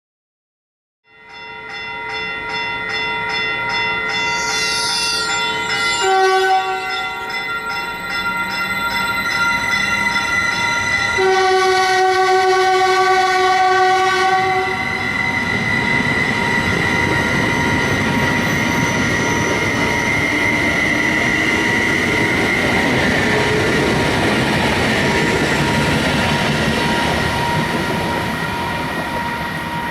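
A passenger train's air horn sounds a chord in long blasts, changing pitch twice, over roughly the first half. The train then passes close by with a steady rush of wheel and rail noise.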